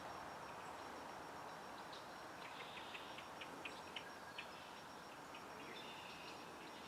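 Small songbirds calling faintly: a quick run of short, high notes about two and a half to four and a half seconds in, then longer high notes near the end, over a soft outdoor hiss.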